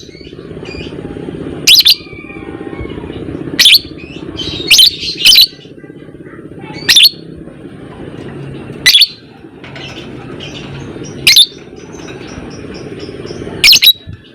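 Lovebird calling with loud, sharp, short shrieks about every two seconds, over a steady low rattling drone.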